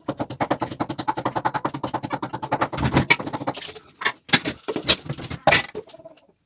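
Knife chopping fast on a cutting board, about ten even strokes a second for three to four seconds, then a few separate sharp knocks of kitchen things being set down.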